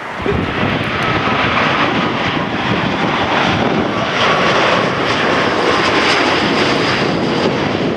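Boeing 787-8 Dreamliner's Rolls-Royce Trent 1000 turbofan engines passing close: a loud, steady jet rush with a faint high whine, jumping up in level a moment in.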